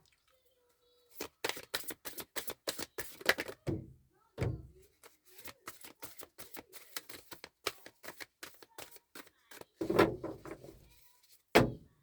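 Oracle cards being handled and shuffled: a fast run of light clicks and taps, with a few heavier thumps.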